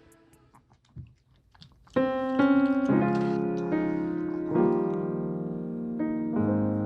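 Quiet for about two seconds with a few faint clicks, then soft background piano music, slow chords struck one after another.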